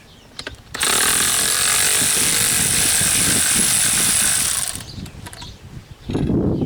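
Power ratchet running steadily for about four seconds, spinning out one of the rear wheel hub's mounting bolts.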